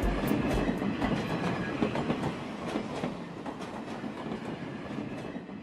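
A train running with a rhythmic clicking of wheels over rail joints, growing steadily quieter as it fades out.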